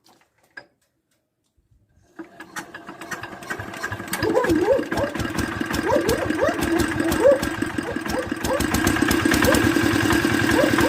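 R180 single-cylinder diesel engine of a walk-behind tractor starting: it catches about two seconds in and its firing quickly builds into a steady fast run. The engine has just been rebuilt with new piston rings after losing compression, and starts almost at once.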